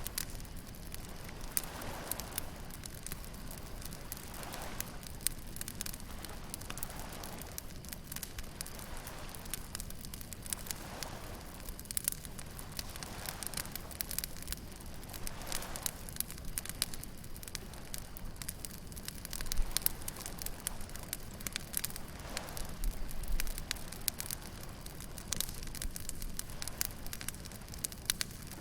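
Wood bonfire crackling with a constant stream of irregular snaps and pops, a few louder ones now and then. Underneath runs a steady hiss of waves on the beach.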